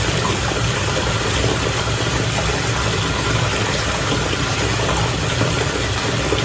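Bath water bubbling steadily, a dense fizzing and crackling over a low, even hum.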